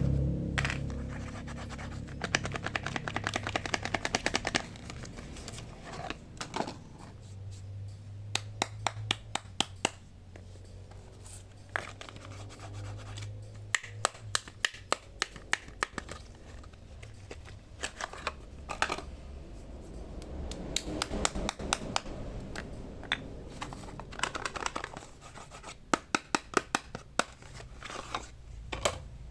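Hands unwrapping soap packaging: scratching and crinkling, with repeated clusters of sharp clicks and taps.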